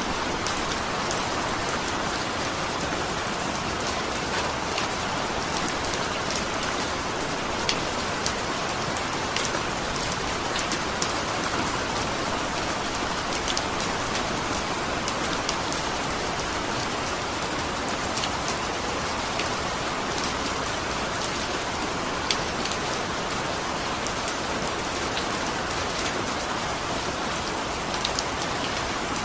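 Steady rain falling, with many separate sharp raindrop ticks scattered through the constant hiss.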